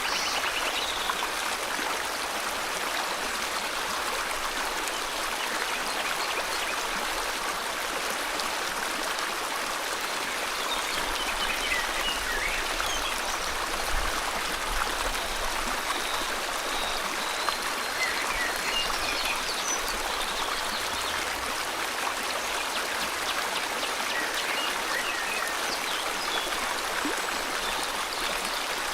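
River water flowing steadily, with a few faint bird chirps over it, mostly near the start and in the middle.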